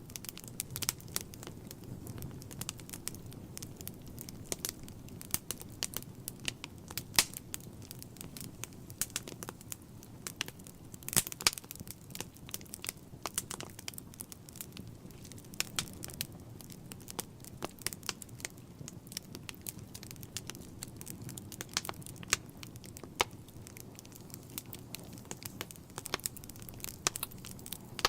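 Wood fire in a fireplace crackling, with frequent irregular sharp pops over a steady low rush of flame. A few louder pops come about seven and eleven seconds in.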